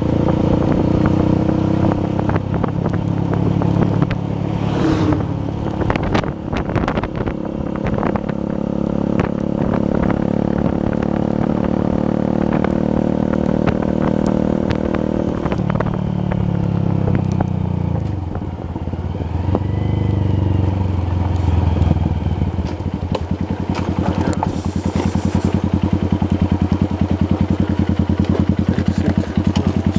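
Honda Verza 150's single-cylinder engine running under way, its pitch falling as it slows about halfway through, then idling with an even, regular beat over the last several seconds.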